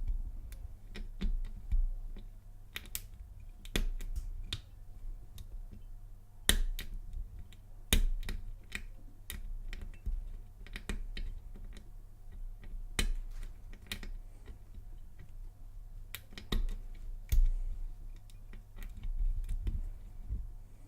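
Lock pick working the pin tumblers of a Lockwood laminated padlock: irregular sharp clicks and taps as the pins are lifted and set under tension, with a few louder clicks spread through.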